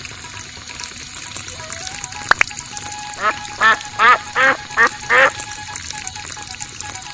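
A quick run of about six short, pitched animal-like calls, over a faint steady whine. A single sharp click comes shortly before the calls.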